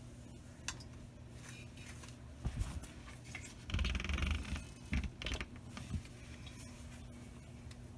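Kitchen handling sounds during cooking: a few knocks and a brief scraping rub in the middle, over a steady low electrical hum.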